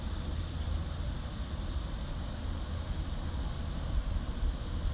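Steady outdoor background noise: a fluctuating low rumble with an even hiss above it, and no distinct event.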